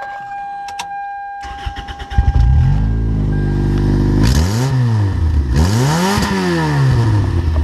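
Demolition derby car's engine cranked by the starter, catching about two seconds in and running loud with its exhaust cut off, revved up and back down twice.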